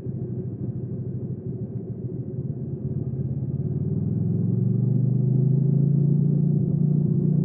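Hyosung GV300S Aquila motorcycle's V-twin engine running under way, picking up revs and growing louder from about three seconds in, then holding the higher note.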